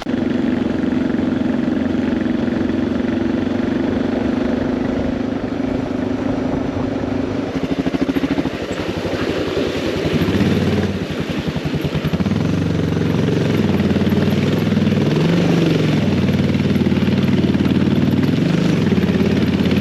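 Suzuki DR650 single-cylinder four-stroke motorcycle engine running, steady for the first several seconds, then rising and falling in pitch with the throttle as the bike is ridden off.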